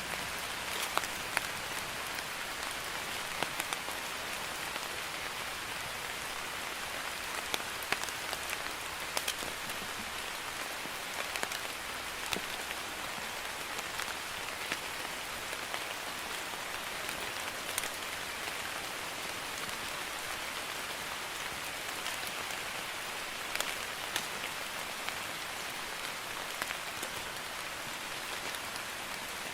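Steady light rain, a drizzle, falling on a surface: an even hiss with distinct individual drops pattering through it.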